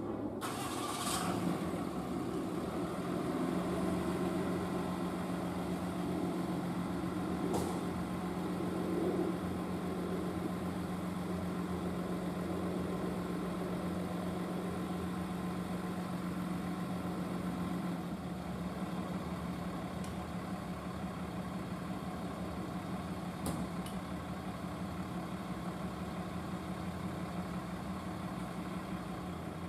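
Fire truck's engine idling steadily with a constant low hum, a few faint ticks over it.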